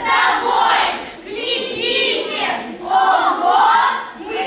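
A group of children's voices calling out together in unison, in about four loud phrases with pitch rising and falling, in a large hall.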